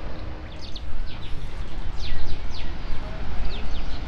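Small birds chirping busily, many short, quick down-sliding chirps overlapping one another, over a loud, uneven low rumble.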